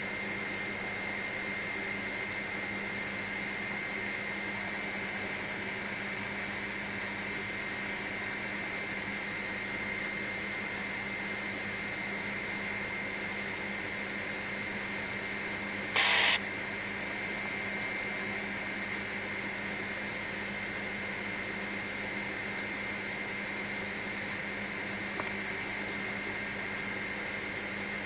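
Helicopter in cruise flight: a steady cabin drone with a constant hum and hiss. About sixteen seconds in there is one short, louder burst of noise lasting under half a second.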